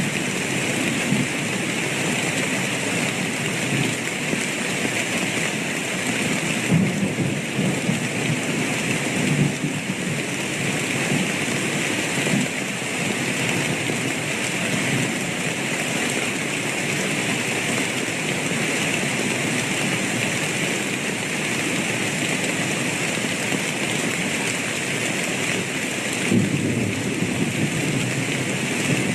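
Steady rain falling in a thunderstorm, with low thunder rumbling a few times, once more near the end.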